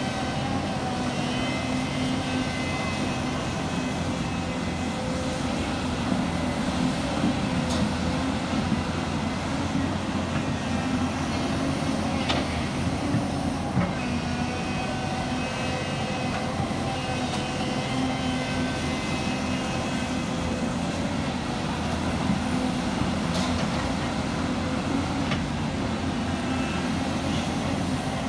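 Heavy diesel earthmoving machinery running steadily under load, with sharp metallic knocks every few seconds, typical of crawler tracks and moving stone.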